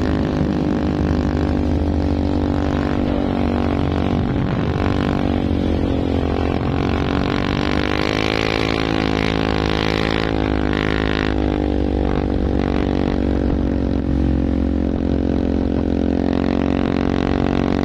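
Heavy truck engines labouring with a steady low drone, the pitch wavering slightly partway through.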